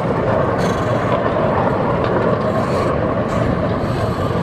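Small park train rolling steadily along its track, heard from aboard an open passenger car: a continuous rumble of the running gear and wheels, with a few faint, brief high squeaks.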